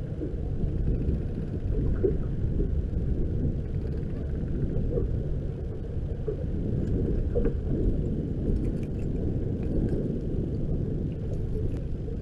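Low, steady rumble of a boat running underway: engine and hull noise with no clear engine note.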